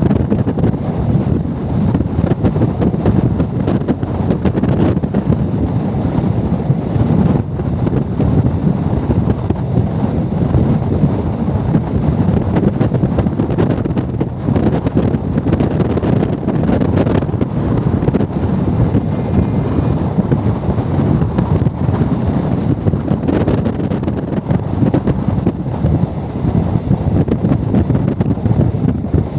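Wind buffeting the microphone over the steady rumble of a moving express train.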